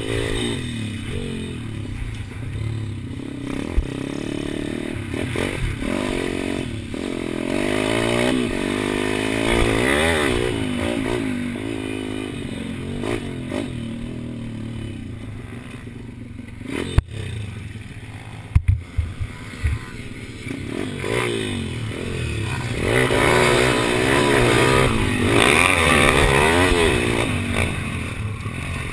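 Pit bike engine revving up and down again and again as it is ridden hard around a track, its pitch rising and falling with each burst of throttle. A few sharp knocks come a little past the middle while the engine is quieter, and it runs louder again near the end.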